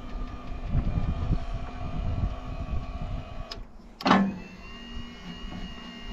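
A Woodland Mills sawmill's head mechanism running as it is tested for a jerky descent after lubrication: a steady motor-like running sound with a sharp clunk about four seconds in, after which a higher steady tone joins.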